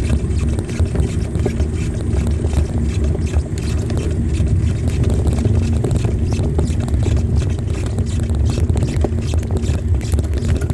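Wind buffeting the microphone of a moving bicycle: a loud, steady low rumble with scattered clicks and rattles.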